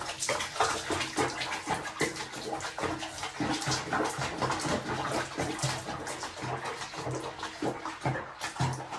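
Water splashing and running, as in a bath being filled or used.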